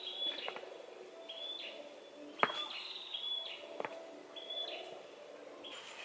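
A bird calling over and over, a short high note that drops away at the end, repeating roughly once a second. Two sharp knocks of stone set against stone break in, the louder about two and a half seconds in.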